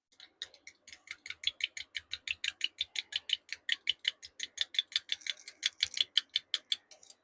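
Knife stirring hot plastisol in a cup, clicking against the sides in a fast, even rhythm of about six strokes a second.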